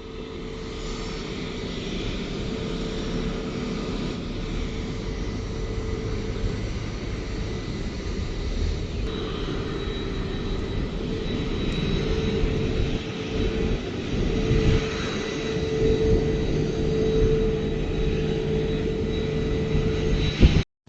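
Jet airliner engines running, a steady rush with a held whine that slowly grows louder.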